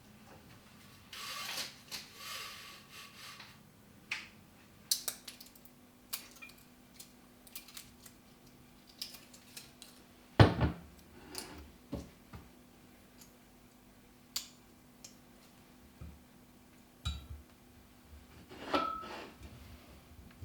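Scattered household handling sounds, clicks and knocks like dishes and utensils being moved and set down, with one sharper knock about halfway through. A faint steady hum sets in after about five seconds.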